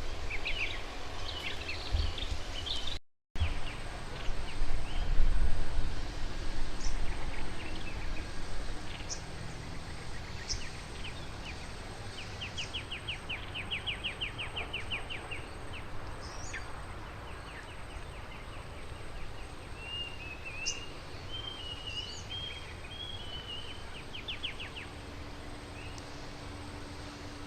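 Wild birds chirping and calling over steady outdoor background noise, with a rapid trill of about a dozen notes a second around the middle and a brief full dropout of the sound about three seconds in.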